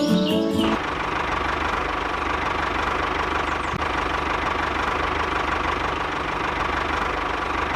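Small motor running steadily with a fast, even rattle, taking over after music stops about a second in.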